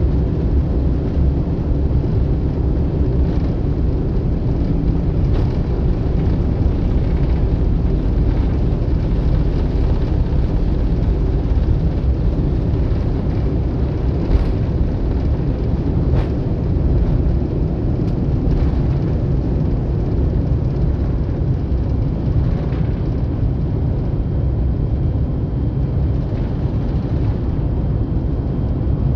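Cabin noise inside a jet airliner during lift-off: the engines and rushing air make a loud, steady, low rumble.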